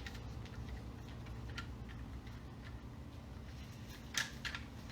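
A few light, irregular clicks, with one sharper click a little after four seconds, over a steady low hum.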